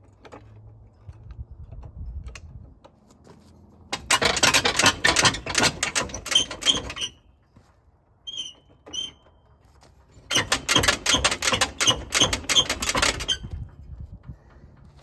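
Socket ratchet clicking rapidly in two runs of about three seconds each, with two short squeaks between them.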